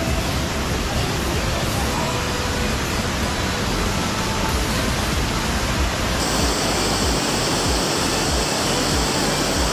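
Rushing stream water, a steady loud wash. About six seconds in it abruptly turns brighter and hissier.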